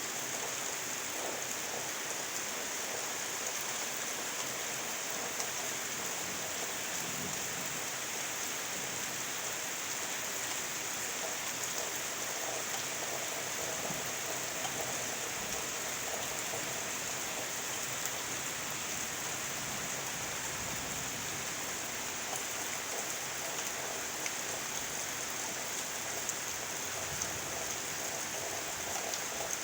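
Steady heavy rain from a tropical storm, falling as an even, unbroken hiss.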